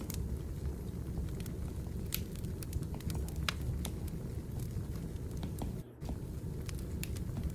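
Wood fire burning, with a steady low rumble and scattered sharp crackles and pops. The sound drops out for a moment about six seconds in.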